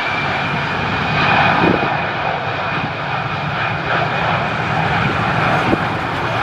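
Airbus A319 jet engines at takeoff thrust: a loud steady noise with a steady high whine.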